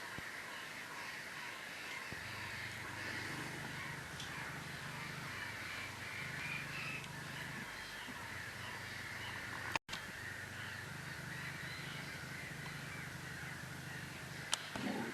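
A continuous chorus of many birds calling at once, harsh crow-like calls among them. A sharp click comes near the end.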